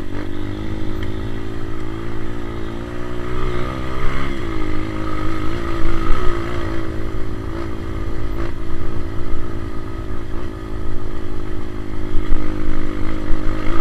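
Honda CRF230 dirt bike's single-cylinder four-stroke engine pulling hard up a steep hill, the revs dropping about four seconds in and climbing again.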